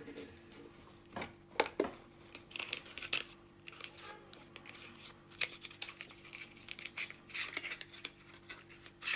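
Handling and opening a mascara's packaging: plastic crinkling and tearing, with scattered sharp clicks and taps.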